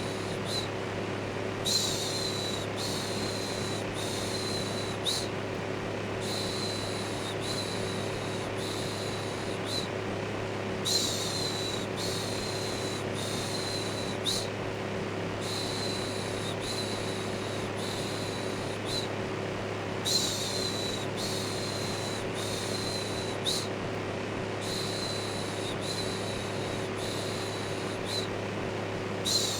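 Electric fan running steadily with a low motor hum, overlaid with rhythmic "shhh" shushing: about one shush a second, in runs of four or five with short pauses between runs.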